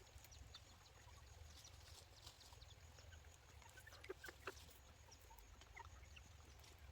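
Near silence: a low steady hum with faint, scattered ticks and a few short high chirps.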